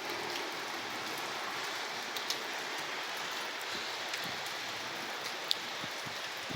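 Steady rain falling, with a few sharper drop taps standing out now and then.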